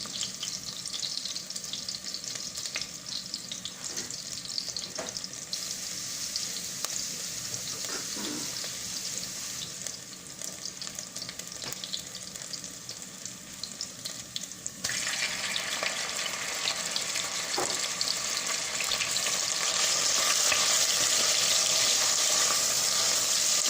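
Onion and ginger sizzling in hot oil in a pan, with scattered light clicks of stirring. About fifteen seconds in, the sizzle suddenly gets louder and brighter as pieces of chicken breast go into the hot oil, and it grows louder again near the end.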